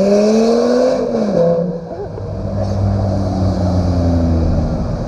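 Car engine accelerating, its pitch climbing until about a second in, then dropping as the revs fall away, and running on at a steady lower pitch.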